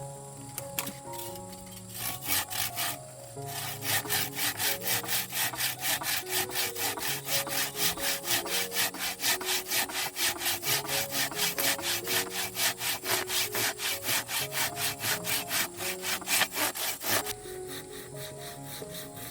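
A hand saw cutting wood in quick, even back-and-forth strokes, about four a second. It starts about two seconds in, pauses briefly, then runs on steadily and stops a couple of seconds before the end. Background music with a simple melody plays throughout.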